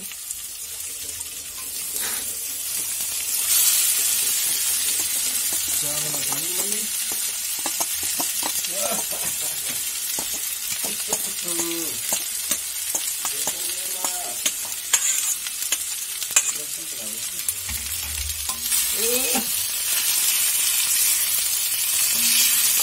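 Capsicum, onion and paneer sizzling in a hot iron kadhai while a perforated steel spatula scrapes and stirs and boiled noodles are tipped in. The sizzle gets louder about three and a half seconds in and again near the end.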